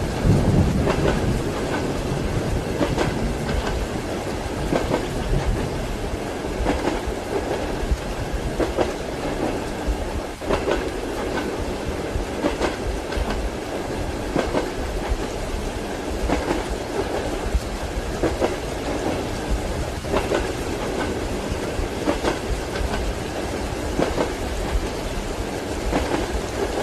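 Passenger train carriage rolling along, heard from inside the compartment: a steady rumble with the wheels clacking over rail joints in a regular rhythm, about one clack every two seconds.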